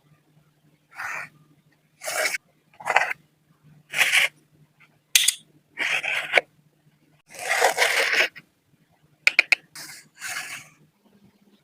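A series of short scraping strokes, about nine, each lasting under a second, with a few sharp clicks near the end. A faint steady low hum runs underneath.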